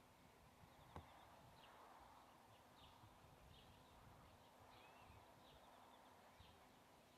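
Faint outdoor quiet with a bird calling, a series of short high chirps repeating every second or less, and a single sharp click about a second in.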